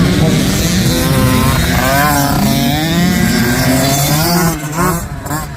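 A 65cc two-stroke motocross bike engine revving, its pitch rising and falling, until it drops off about four and a half seconds in.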